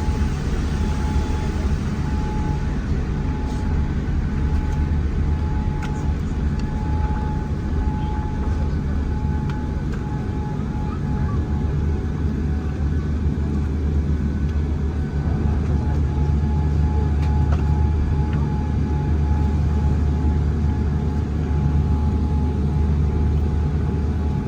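Steady cabin noise inside a Boeing 787-8 airliner: a deep, even rumble of engines and airflow with a thin steady whine above it and a few faint rattles.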